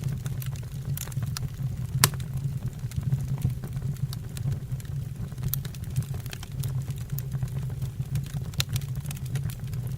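Wood burning in a fireplace: a steady low rumble of the flames under irregular sharp crackles and pops of the firewood, the loudest pop about two seconds in.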